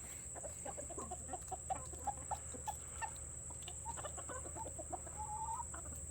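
Hens clucking, a quick series of short clucks with one longer drawn-out call about five seconds in.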